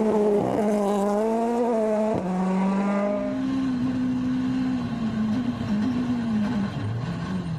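Rally car engine running hard at high revs. Its pitch holds steady, drops briefly about two seconds in as if shifting gear, then steps up. Near the end the pitch falls and rises several times.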